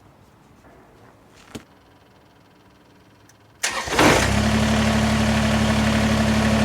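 Quiet, with a faint click about one and a half seconds in. About three and a half seconds in, an engine cranks briefly and catches, then runs at a steady idle.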